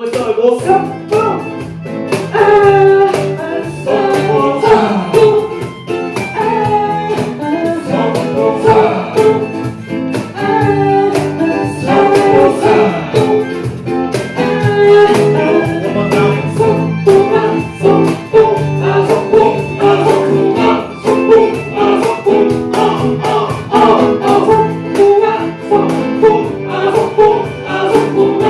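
Live band playing a song: guitars over a steady bass line and drum beat, with no break in the playing.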